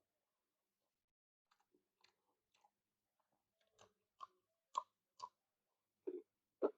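A person chewing food close to the microphone: wet mouth clicks and smacks, sparse at first, then coming faster and louder for the last few seconds.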